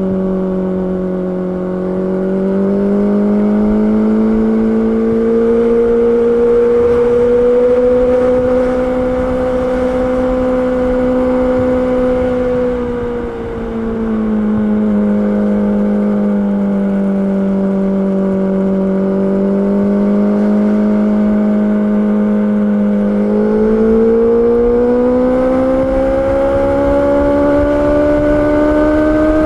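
Honda CB650R's inline-four engine running steadily under way, its note easing up early on. It drops back with a brief dip about 13 seconds in, then climbs steadily as the throttle opens from about 23 seconds.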